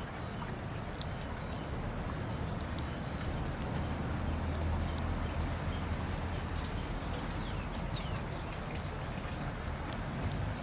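Steady rain falling, with scattered drops ticking close by and a low rumble that swells near the middle.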